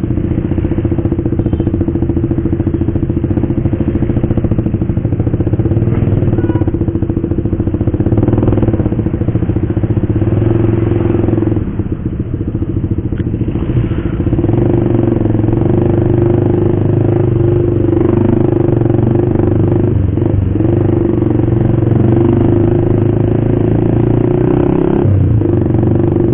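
Motorcycle with an aftermarket racing exhaust running under way, a steady engine note that drops briefly about twelve seconds in.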